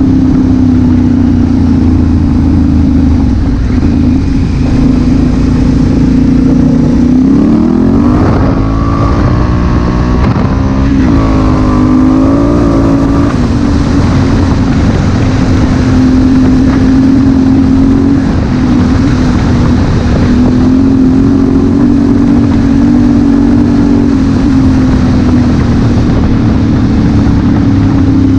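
Honda Africa Twin CRF1000L's parallel-twin engine running while riding, with wind rush over it. The engine note climbs about seven seconds in and rises and falls with the throttle for several seconds, then settles to a steady cruise.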